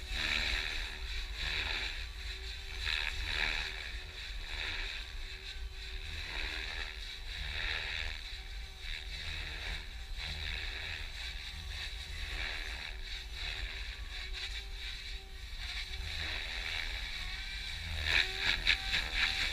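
Electric Compass EXO 500 RC helicopter in flight: its rotor blades whoosh and its motor whines, swelling and fading about once a second as it manoeuvres. It grows louder near the end.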